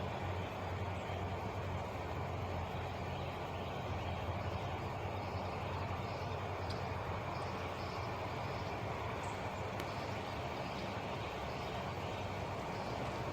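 Truck engine idling steadily, a constant low hum, with faint short high chirps above it.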